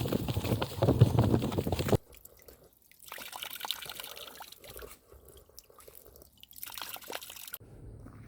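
Running footsteps pounding on the ground for about two seconds, then an abrupt drop to a few much quieter short stretches with faint scuffs.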